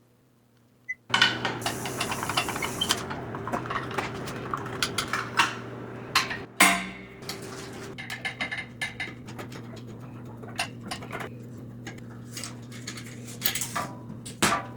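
Small metal parts and hand tools clinking and clicking, with many short sharp knocks over a steady low hum that sets in about a second in.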